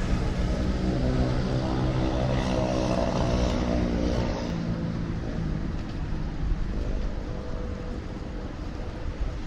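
Motor vehicle engine passing close by on a city street, a low rumble and engine hum that fade after about five seconds into the surrounding traffic noise.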